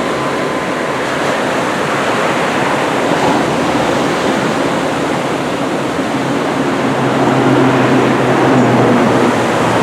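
Steady rushing noise of ocean surf breaking in a typhoon swell. A low hum grows louder about seven seconds in.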